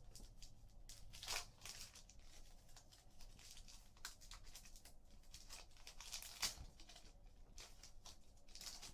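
Trading cards and their packaging being handled: a few short, faint rustles and scrapes as cards slide against each other and wrapper crinkles, the loudest about a second and a half in and again about six and a half seconds in.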